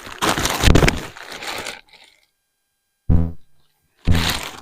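Gear being handled and shifted between storage containers: a second or so of rattling and scraping, then two sharp clunks with a brief ringing tone, about a second apart.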